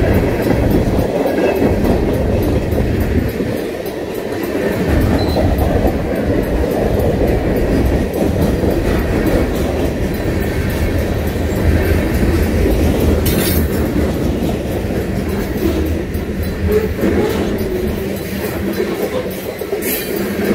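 Freight train of tank cars and covered hoppers rolling past through a grade crossing, its steel wheels on the rails making a steady, loud rumble.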